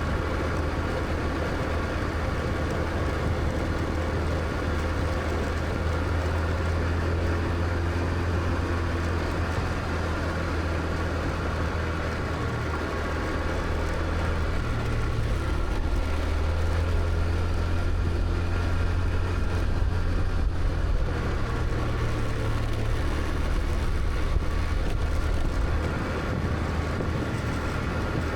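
Motor scooter engine running steadily while riding, with road noise.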